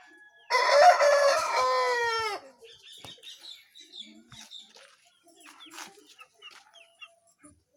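A rooster crows once, loudly, for about two seconds, the call dropping in pitch at the end. A few faint clucks follow.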